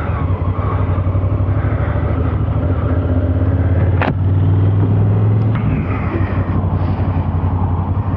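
2019 Honda Africa Twin CRF1000L's parallel-twin engine running as the bike rides off. The engine builds to its loudest between about four and five and a half seconds in, then eases off, with one sharp click at about four seconds.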